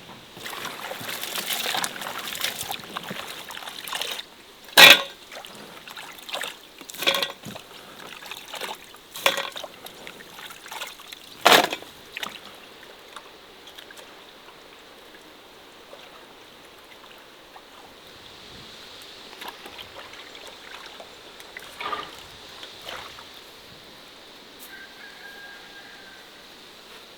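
Water splashing and trickling, with four sharp knocks about two seconds apart in the middle, then quieter small splashes.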